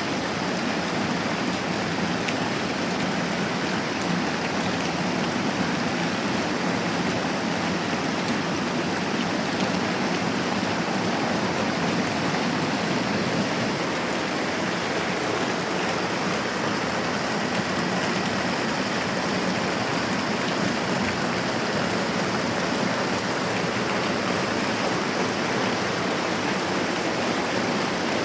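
Moderate rain falling steadily, an even hiss that does not change.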